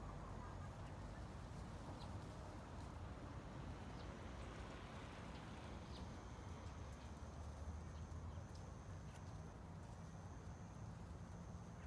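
Faint steady ambient background noise: a low rumble with scattered light taps, and a thin high whine that comes in about halfway through.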